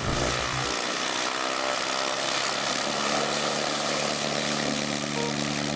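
Small propeller aircraft in flight: a steady propeller and motor drone over a rushing noise, with a hum settling in about halfway through.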